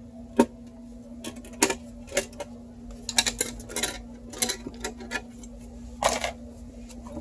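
Sharp clicks and short clattering of small metal and plastic computer parts being handled and fitted, with one loud click about half a second in and a busy run of clicks over the following five seconds.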